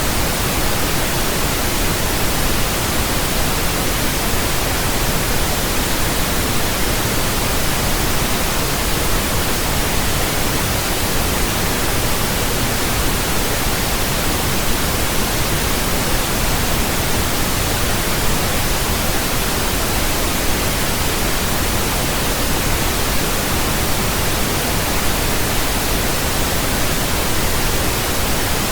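Steady, unchanging pink noise: an even hiss across all pitches with a soft low rumble beneath, deeper than white noise.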